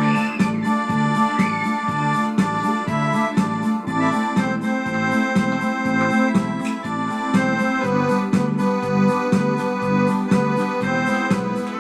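Instrumental music played on an electronic keyboard with an organ-like voice, sustained chords over a steady beat and a repeating bass line.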